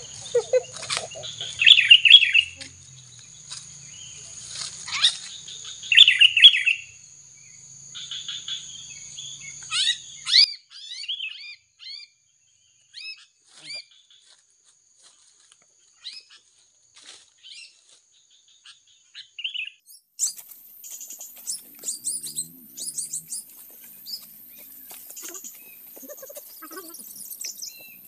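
Birds calling and chirping: two loud bursts of chattering calls about two and six seconds in, then scattered short chirps, over a steady high-pitched tone.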